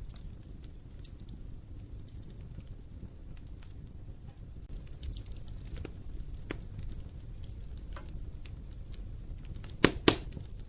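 Wood fire burning in an open fireplace: a low steady rumble of flames with scattered small crackles, and two sharp, loud pops in quick succession near the end.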